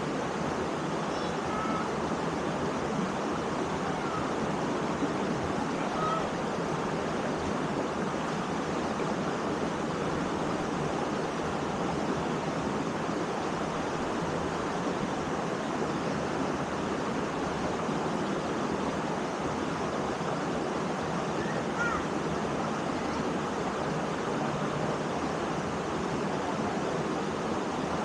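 Waterfall's steady rushing water. A few faint, brief high chirps sound over it.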